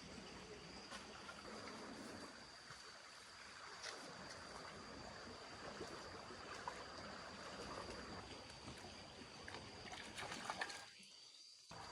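Faint flowing water over a steady high insect drone, with a few small clicks.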